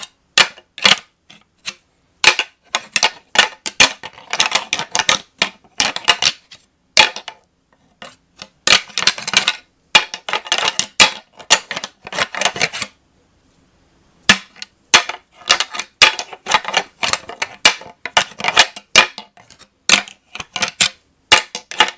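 Shed whitetail deer antlers rattled and ground together, imitating two bucks sparring: rapid bursts of sharp clacks and ticking, each a second or two long, broken by brief pauses and one longer pause just past the middle.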